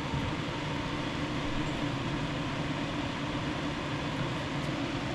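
Steady whir and hiss of a fan running, with a faint low hum.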